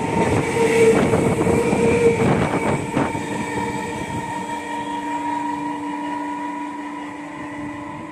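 Electric multiple unit local train departing: the last coaches pass close with wheels clattering over the rail joints, then a steady electric hum that slowly fades as the train draws away.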